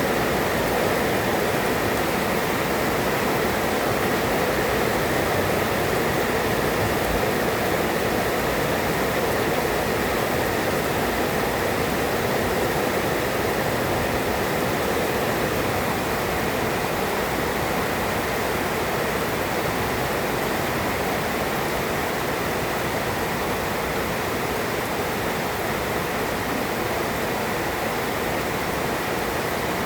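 Heavy rain pouring down steadily, with no thunder.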